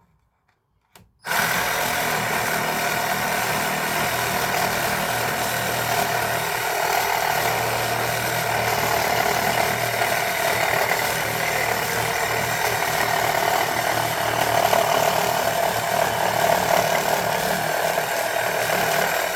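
Reciprocating saw fitted with a construction timber blade cutting through a piece of decking. It starts about a second in and runs steadily through the cut.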